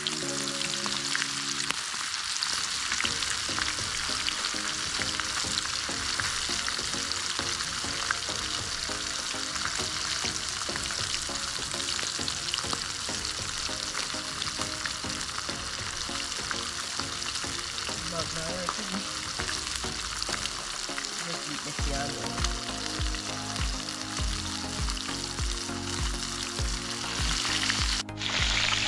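Flour-dredged fish frying in hot oil in a pot: a steady, dense crackling sizzle. Background music plays beneath, and its beat comes in near the end.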